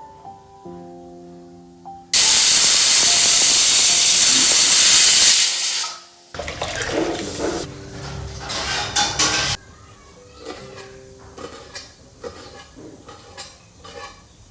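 Kitchen cooking sounds: a sudden loud, steady hiss of steam or spattering about two seconds in, lasting a few seconds. It is followed by rougher sizzling and then light clatter of utensils.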